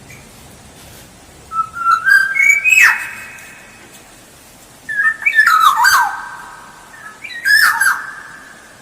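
Black-naped oriole (kepodang) singing three loud, fluty whistled phrases. Each phrase climbs in short steps and ends in a quick downward slur.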